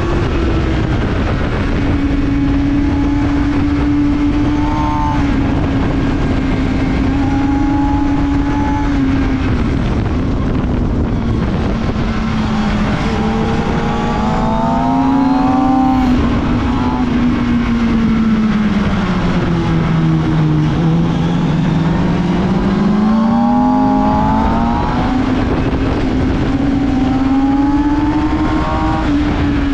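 Kawasaki ZX-6R 636's inline-four engine heard from onboard at speed, its pitch sinking and climbing again with the throttle through a sequence of corners. Heavy wind rush on the microphone.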